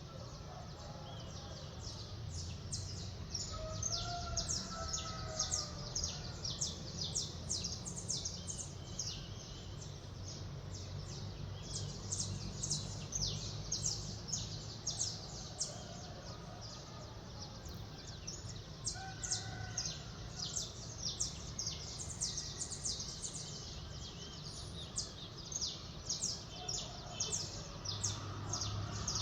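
Many small birds chirping rapidly and continuously in a dawn chorus, with a rooster crowing faintly a few seconds in, over a steady low city rumble.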